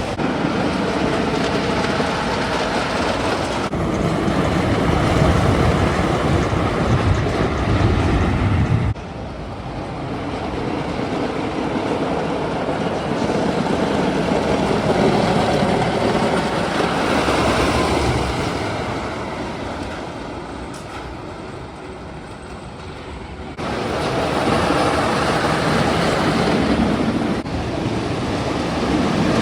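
Roller coaster trains running on their tracks, a steady rumble with clattering, in several clips cut together with abrupt changes in level.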